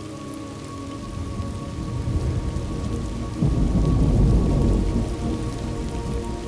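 Thunderstorm: steady rain with a low roll of thunder that builds from about a second in, is loudest around the middle, then slowly fades.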